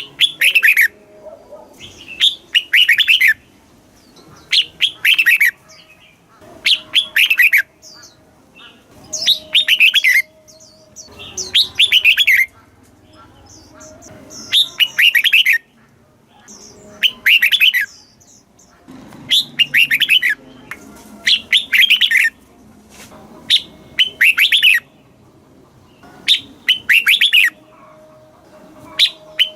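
Red-whiskered bulbul singing: short, lively phrases of quick falling notes, repeated every two to three seconds.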